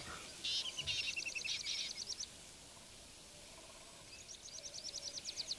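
Birds chirping in a faint outdoor ambience: two bouts of fast repeated high chirps, the first in the opening two seconds and the second starting about four seconds in.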